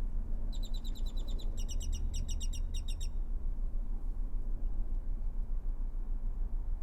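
A bird calling in two quick runs of short, high, evenly repeated notes, about ten a second, from about half a second to three seconds in. A steady low rumble lies under it throughout.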